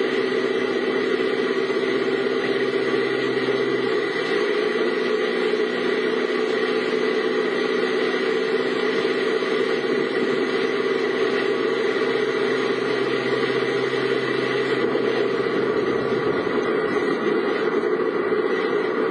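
Vehicle engine running with a steady hum, heard from inside the vehicle.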